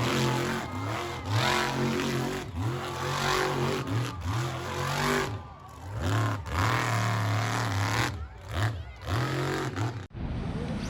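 Vehicle engine revving up and back down over and over, about once a second, then cutting off abruptly near the end.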